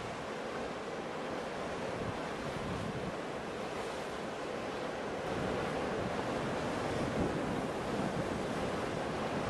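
Ocean surf: a continuous wash of waves, swelling slightly about halfway through.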